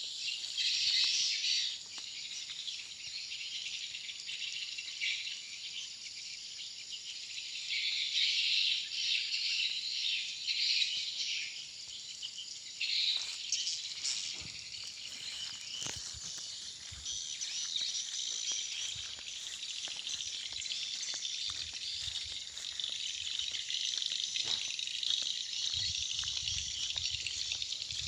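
Many edible-nest swiftlets twittering in a dense, continuous high-pitched chatter that swells and fades, with occasional faint knocks in the second half.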